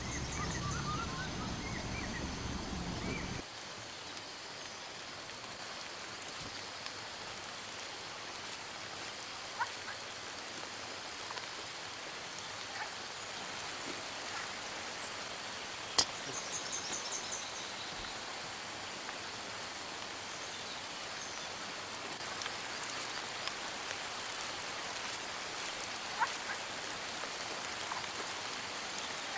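Steady rain, an even hiss. A low rumble cuts off suddenly about three seconds in, there is a single sharp click about halfway through, and a few short high chirps come and go.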